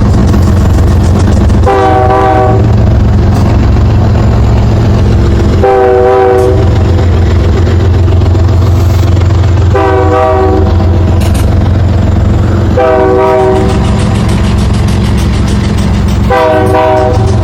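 A train horn sounds five short blasts, about one every three to four seconds, over the steady low rumble of a passing diesel-hauled freight train.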